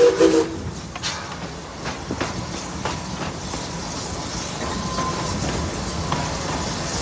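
Steam train running on its track: the last of its whistle cuts off about half a second in, then steady running noise with scattered clicks of the wheels over the rails.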